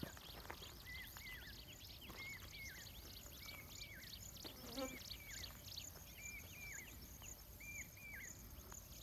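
Faint open-air ambience: a bird repeats a short two-note call about every second and a half, over a steady high insect chirring.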